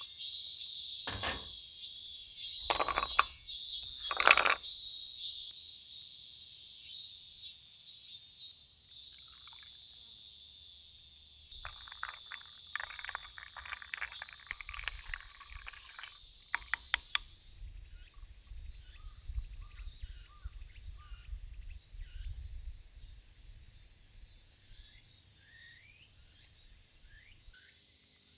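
Steady high-pitched insect chorus in the background, stronger in the first half. A few sharp knocks in the first five seconds and a stretch of light clattering from camp gear being handled, about halfway through.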